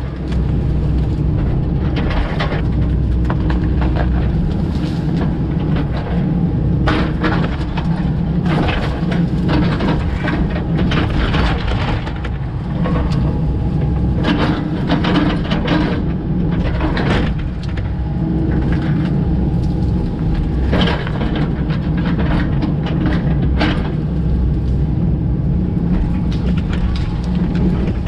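Komatsu PC88 excavator's diesel engine running steadily under load, with frequent sharp cracks and snaps of breaking wood as trees are worked over.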